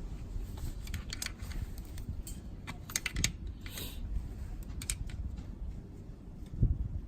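Irregular light clicks and a short scrape of a hand tool prying at an O-ring-sealed part on a Honda NSR250R engine, over a low steady background rumble.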